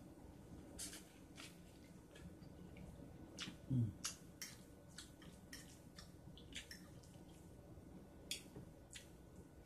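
Close-up eating sounds: faint wet chewing and mouth clicks from eating corn on the cob, with a short low falling hum about four seconds in.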